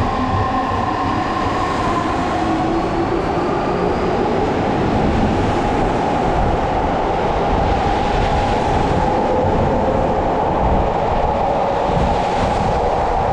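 Odakyu Line electric train running on the rails, with a steady rumble of wheels and track. Its traction motors whine, rising in pitch over the first few seconds as the train gathers speed.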